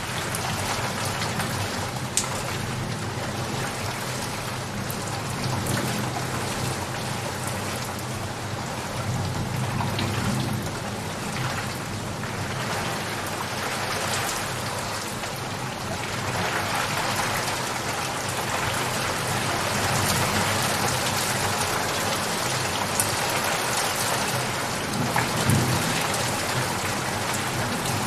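Steady rain falling, with individual drops ticking sharply close by and a low rumble underneath that swells a couple of times.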